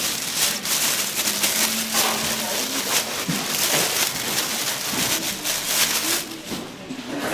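Chicken deep-frying in hot oil: a dense, steady sizzle full of fine crackles.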